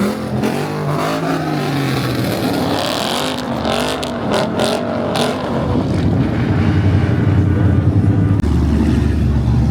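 Car engines running and revving as cars drive through a crowded lot, with an engine's pitch gliding up and down early on. A few short sharp noises come around the middle, and a steady low engine idle grows stronger near the end.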